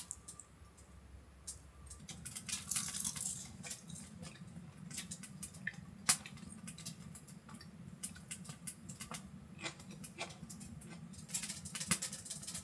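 Close-up eating sounds: crisp fresh napa-cabbage kimchi salad (geotjeori) crunching as it is chewed, with tableware clicking now and then, over a steady low hum.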